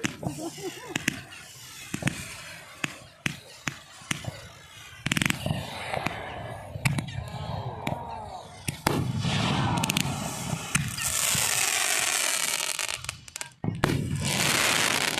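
Fireworks going off: a run of sharp bangs and pops, then from about five seconds in denser barrages, building to two long stretches of dense crackling, the second cutting off sharply at the end.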